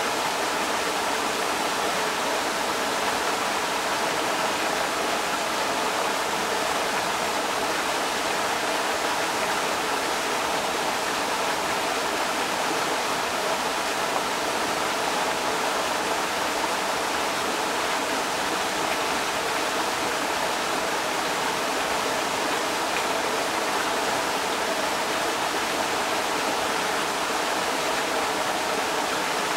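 Creek water rushing steadily over rocks, an even, unbroken wash of sound.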